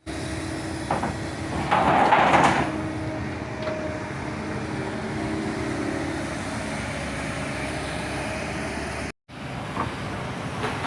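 Kobelco SK200 Super X excavator's diesel engine running steadily, with a louder rushing surge about two seconds in. The sound cuts out for a split second just after nine seconds.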